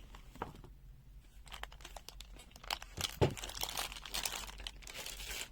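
Handling noise: rustling and crinkling with many small clicks as small items are picked up and moved, sparse at first and busy from about a second and a half in.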